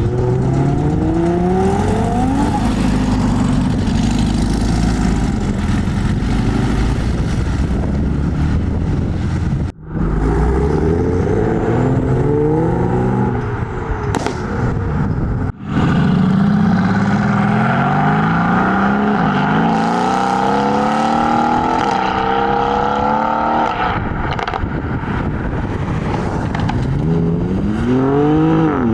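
Modified cars' engines revving and accelerating away, the engine pitch climbing again and again through the gears. Two abrupt breaks, about ten and fifteen seconds in, switch to another car.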